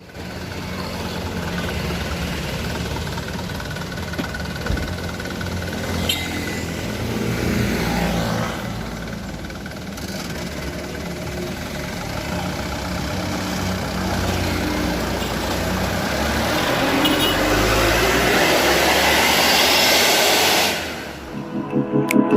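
Vehicle engine running with road and wind noise, its pitch rising and falling as it accelerates, growing louder near the end and then cutting off sharply.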